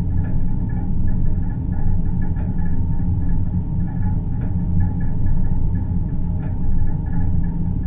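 Deep-space ambient drone for sleep: a steady low rumbling hum with a fainter, flickering higher tone above it and a soft tick about every two seconds.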